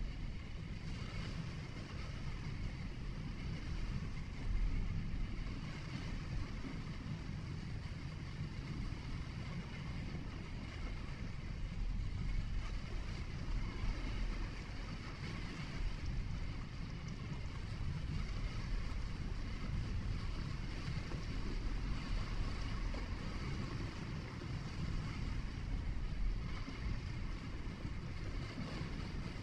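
Steady low rumble of a car driving on a winding road: tyre and engine noise with some wind, swelling slightly now and then.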